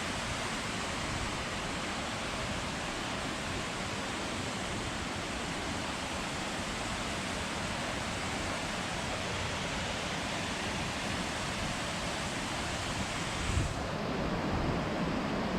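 Waterfall's rushing water: a steady, even roar. Near the end it turns duller and lower, with a rumble underneath.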